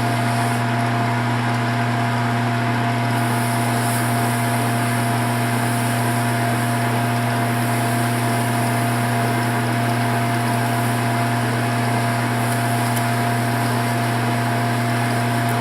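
Lathe running steadily: a constant low motor hum with a steady whine over it.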